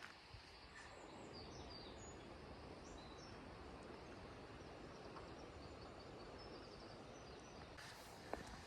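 Near silence: faint outdoor ambience with a few faint, short high bird chirps and trills scattered through it.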